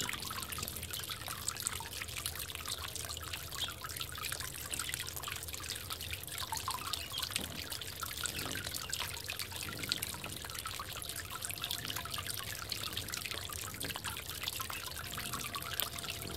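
Water trickling and dribbling steadily in a garden bird bath.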